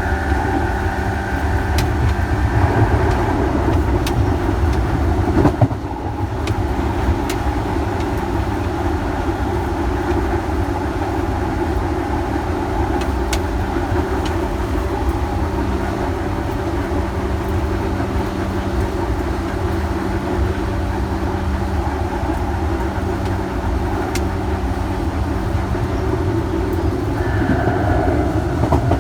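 Commuter electric train running, heard from inside the carriage: a steady rumble of wheels and running gear with a steady hum. A higher motor whine fades out about three seconds in and returns near the end, with a few clicks around six seconds in.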